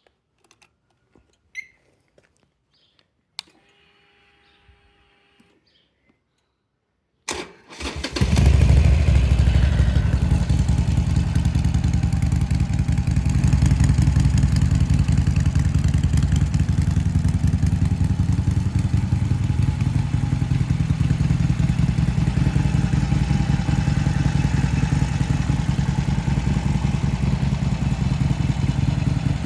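Harley-Davidson Sportster Seventy-Two's 1200 cc V-twin breathing through an aftermarket Miller exhaust: after a few faint clicks, the starter cranks briefly about seven seconds in, the engine fires, and it runs steadily and loudly from then on.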